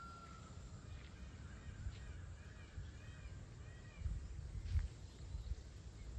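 Birds calling: a short run of small repeated chirps in the middle, over a steady low rumble with a few bumps near the end.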